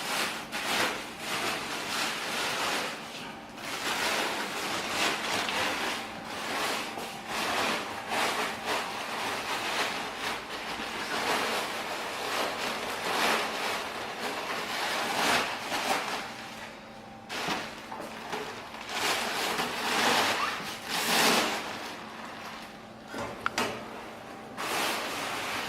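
Polyethylene bag rustling and crinkling as it is pulled off a stove, the noise coming and going unevenly.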